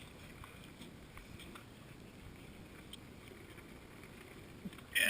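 Faint sloshing of water with a few small splashes, from a person moving in cold water near the bank.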